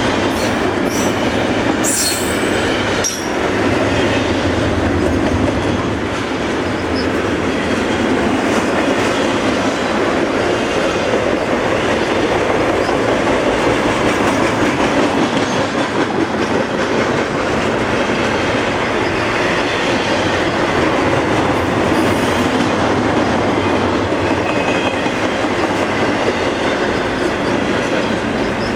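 Freight train cars rolling past on the rails, a steady loud rumble with wheels clacking over the track, and a brief high wheel squeal about two seconds in.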